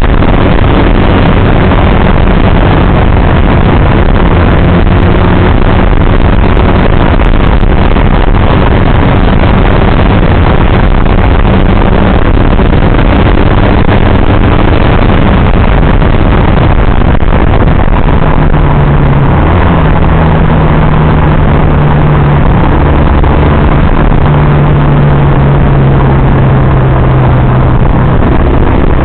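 Motorcycle engine running on the move, its note stepping up about two-thirds of the way in, under heavy wind rush on the microphone.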